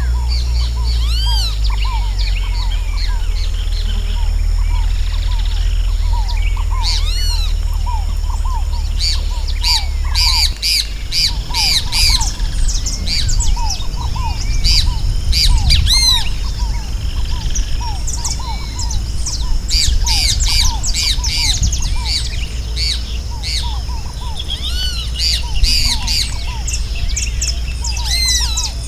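Many birds calling together: a dense chorus of quick arching chirps and squawks, with a repeated lower note running beneath, over a steady low rumble that turns rougher about ten seconds in.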